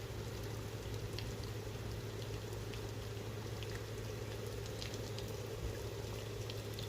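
Rain falling, with scattered drops ticking and pattering on a surface over a steady low hum.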